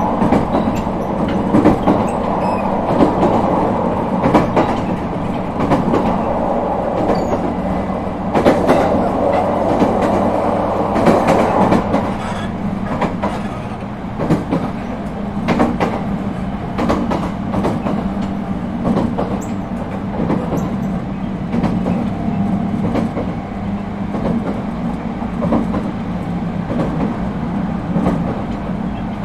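Running noise heard inside an ET127 series electric train car: a steady rolling rumble with repeated sharp clicks of the wheels over rail joints. The rumble's higher hiss eases off a little about twelve seconds in.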